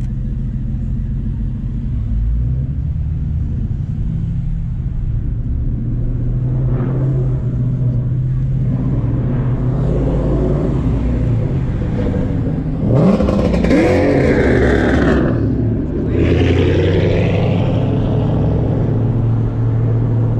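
Car with a loud aftermarket exhaust accelerating, its engine note rising sharply about two-thirds of the way through and again shortly after, over a steady low drone of cruising traffic.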